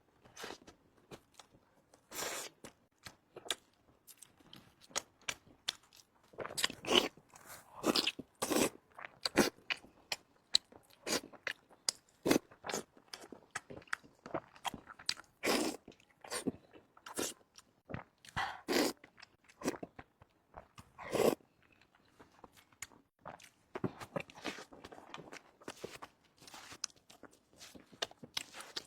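A person chewing and biting food with many sharp, irregular crunches, as in a mukbang eating show.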